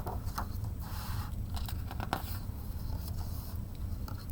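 Paper rustling and a few light clicks as a book's page is handled and turned, over a steady low hum.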